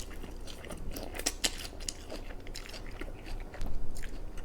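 A mouthful of keto-crust pizza being bitten and chewed close to the microphone, with a cluster of crisp crunches about a second in, then irregular chewing.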